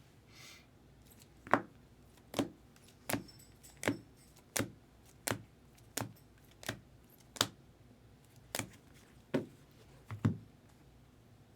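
A dozen or so sharp, light clicks, about one every three-quarters of a second, typical of hard cards or card holders being handled and tapped down on a tabletop.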